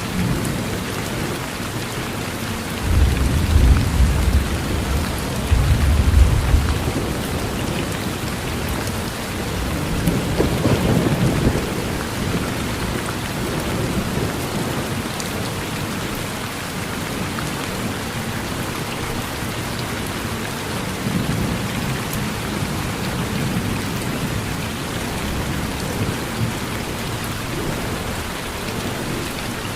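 Steady rain with thunder rumbling. The loudest, deepest rumbles come about three to seven seconds in, another rolls through around ten to twelve seconds, and a fainter one follows a little past twenty seconds.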